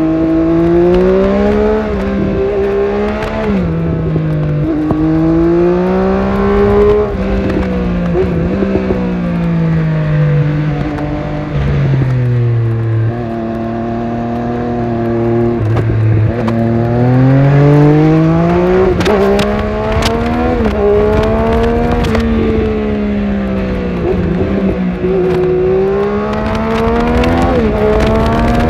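Triumph Speed Triple 1200RS inline-three engine heard from the bike, revving up through the gears with quick upshifts that drop the pitch sharply. Midway it eases back to low revs for a few seconds, then pulls hard again.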